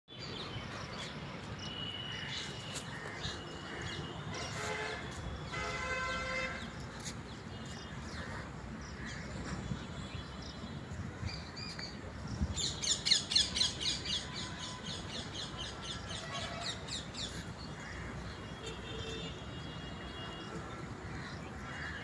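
Several birds chirping and calling over a steady low background rumble, with a fast run of sharp repeated notes lasting about two seconds, starting about twelve seconds in, the loudest part.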